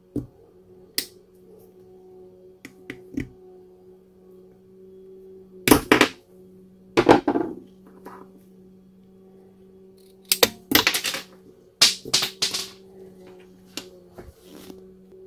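Hand work on a cordless angle grinder during a switch repair: scattered sharp clicks and several short scraping rattles of parts being handled, in clusters, over a steady low hum.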